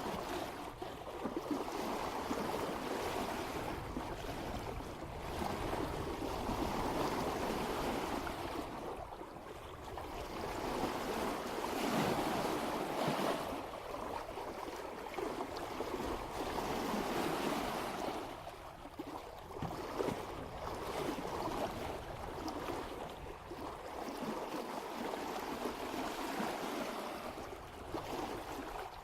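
Water rushing and splashing along the bow of a sailboat under way at about 3 knots. It swells and ebbs every few seconds as the bow meets each wave.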